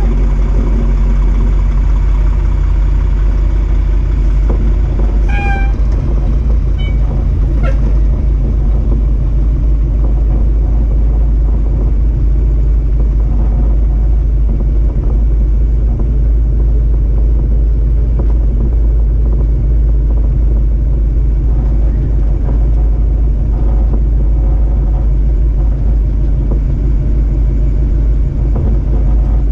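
1955 Chevrolet truck running, a steady loud low rumble.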